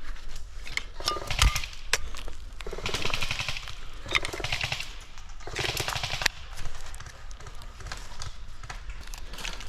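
Airsoft guns firing in rapid full-auto bursts, a fast rattling buzz. The two longest bursts come about three seconds in and about six seconds in, with scattered sharp clicks and knocks between them.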